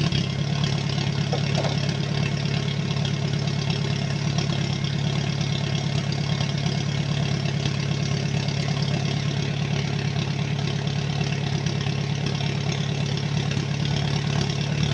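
Off-road 4x4's engine idling steadily, an even low drone with no revving.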